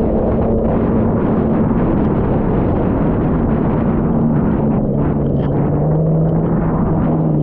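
Jet ski engine running hard over a dense rushing noise. Its pitch drops about halfway through and then holds lower.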